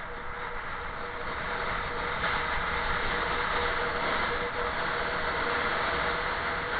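Steady rush of heavy wind with a faint steady hum under it, getting a little louder about two seconds in.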